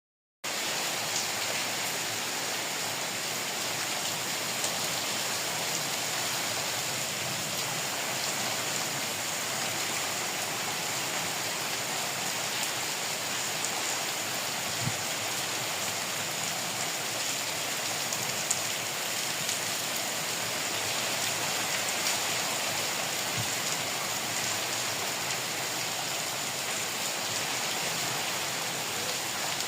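Heavy rain falling steadily: an even hiss of rain with an occasional louder single tap.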